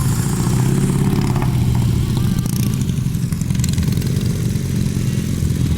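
Soviet heavy sidecar motorcycle's boxer-twin engine running, its revs rising and easing twice.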